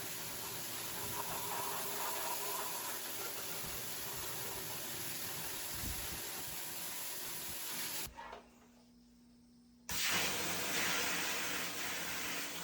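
Steady hissing spray of water, like a spray nozzle washing down parts of a dismantled washing machine. It cuts out suddenly about eight seconds in and returns slightly louder about two seconds later.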